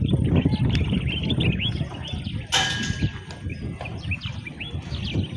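Small birds chirping busily over a steady low rumble, with a short hiss about two and a half seconds in.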